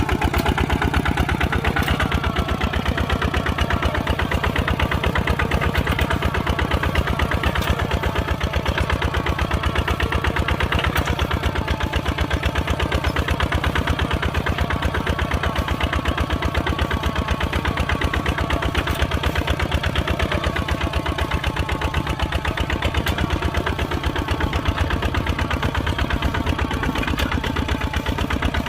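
Kubota RT 140 single-cylinder diesel tractor engine running steadily, its rapid firing beat even throughout.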